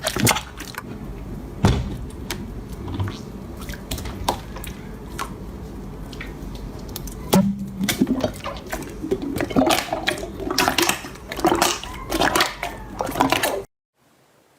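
Slime being squeezed and worked by hand: wet squelching with many small crackling pops and clicks, busier in the second half, cutting off abruptly near the end.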